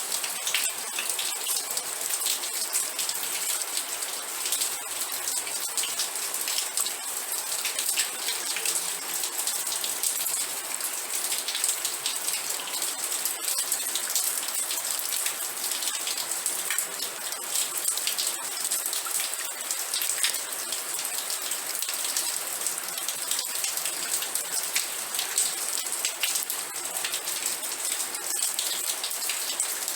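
Steady rain falling on a surface, a dense even hiss with many small sharp ticks of individual drops.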